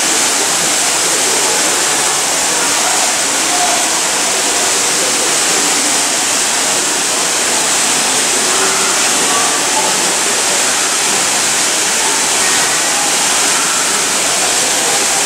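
Indoor lobby waterfall splashing into its pool: a steady, loud rush of falling water that does not change.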